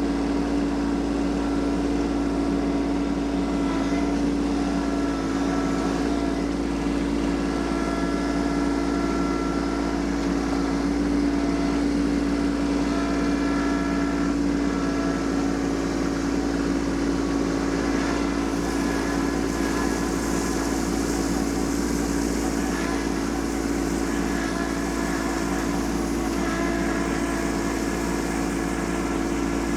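Kubota LX2610 compact tractor's three-cylinder diesel engine running steadily, its pitch holding even.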